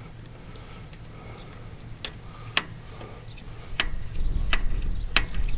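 Hand primer pump on an International Harvester 1086's diesel fuel filter being worked to draw fuel into the line, giving sharp clicks every half second to second from about two seconds in. A low rumble rises under the clicks in the second half.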